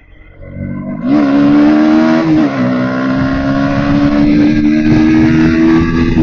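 Bajaj Pulsar NS160's single-cylinder engine accelerating under the rider. It gets loud and climbs about a second in, drops in pitch with an upshift a moment later, then pulls with slowly rising revs.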